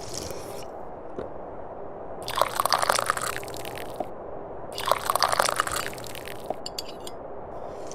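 Two loud, wet slurping sips of tea, each about a second and a half long, over a steady background noise.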